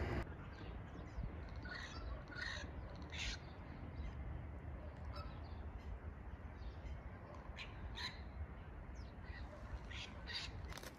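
Birds calling outdoors: a dozen or so short separate calls scattered through, over a low steady background rumble.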